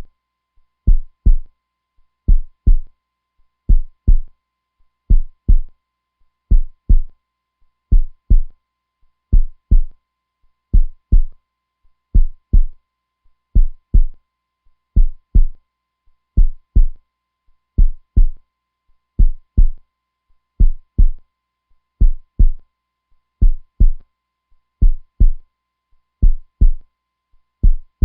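Heartbeat sound: a steady lub-dub, two low thumps close together, repeating about every second and a half.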